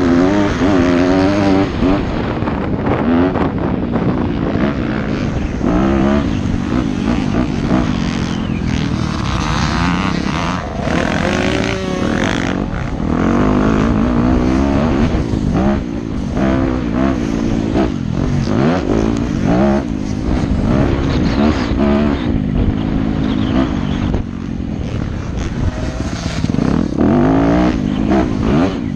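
Yamaha YZ250F motocross bike's single-cylinder four-stroke engine at race pace, its pitch rising and falling over and over as it revs up and backs off.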